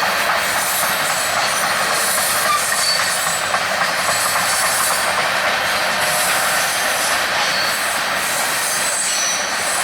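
Freight train cars rolling past on steel rails: a steady loud rushing of wheels on track, with a few short, faint high-pitched wheel squeals now and then.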